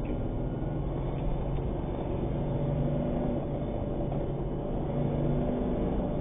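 Steady engine and road noise from inside the cab of a moving vehicle, the engine note holding fairly even with a low rumble.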